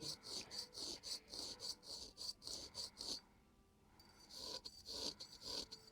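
Straight razor scraping over facial skin in short, quick strokes, about three a second, with a pause of about a second partway through.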